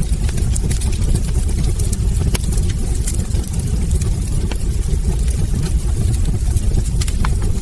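Wood fire burning in a hearth: a steady low rumble of flames with frequent small sharp crackles and pops from the burning logs.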